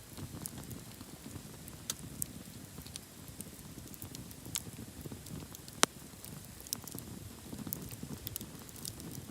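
Wood campfire crackling: scattered sharp pops and snaps, one louder pop about halfway through, over a low steady rush of burning.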